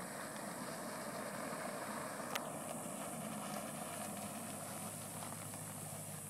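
Dodge Challenger SRT8's 6.1-litre Hemi V8 running steadily as the car rolls along at low speed. A single sharp click comes about two and a half seconds in.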